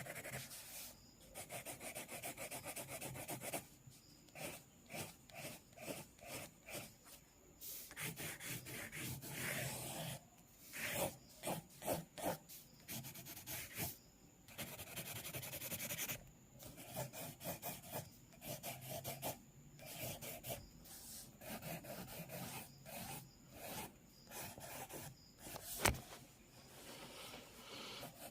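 Sketching on paper: runs of quick, scratchy strokes with short pauses between them, and one sharp tap near the end.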